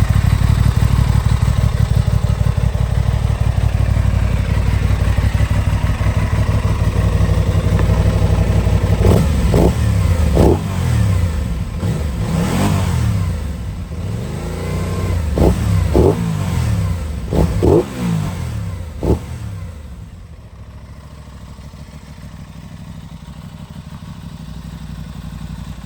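Aprilia Tuono 660's parallel-twin engine idling steadily, then revved in a series of quick throttle blips for about ten seconds. It is much quieter for the last few seconds.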